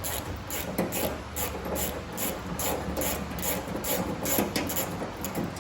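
Hand ratchet wrench being worked back and forth, a rasping ratchet stroke about two to three times a second, as bolts on a drum mower's belt drive are loosened.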